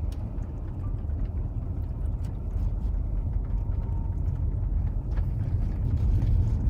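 Car driving on a rough road, heard from inside the cabin: a steady low rumble with faint scattered rattles, growing a little louder near the end.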